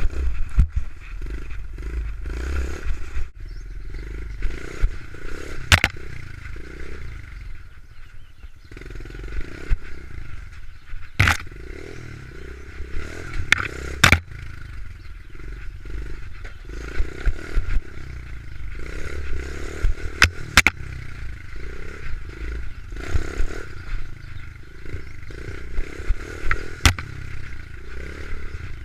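Small pit bike engine running, with rattling clatter and a handful of sharp knocks scattered through it.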